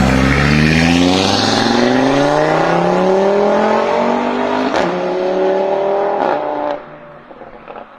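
Audi RS3 Sportback's five-cylinder engine through an Armytrix aftermarket exhaust, accelerating hard, its note rising steadily for about six seconds. There are two sharp cracks late in the pull, then the sound drops away suddenly near the end.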